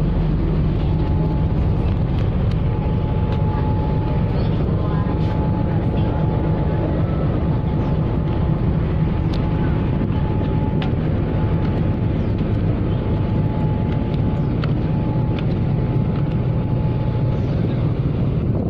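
Steady drone of a ship under way at sea: a heavy low engine rumble with rushing noise over it and a faint steady whine.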